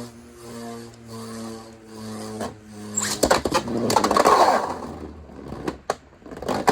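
Two Beyblade tops, a 3D-printed Agèma Ares and a Beyblade X Wizard Arrow, spin in a plastic stadium with a steady whirring hum. From about three seconds in they clash and scrape for a couple of seconds, then a few sharp clicks follow as one is knocked out of the stadium: an over finish.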